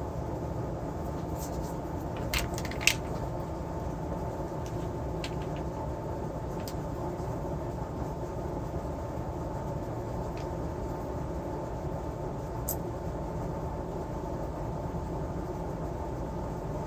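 Steady background hum with a faint steady tone, broken by a few light sharp clicks, the loudest two close together about two and three seconds in.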